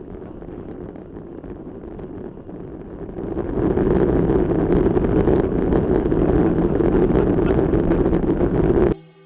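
Steady rushing noise, like wind on the microphone, that grows much louder about three seconds in and cuts off suddenly near the end, where electronic music starts.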